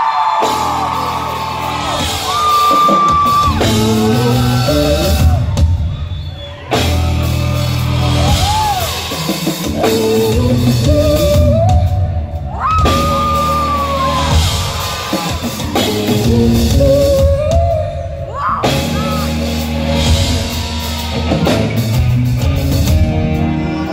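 Live R&B concert music in a large hall: a female singer's gliding, held vocal lines over bass and drums, heard from the audience.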